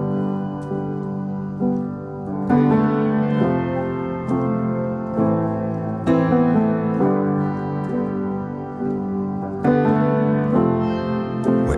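Background music: a piano, sounding like an electric piano, plays sustained chords that change about every second or two, with no singing.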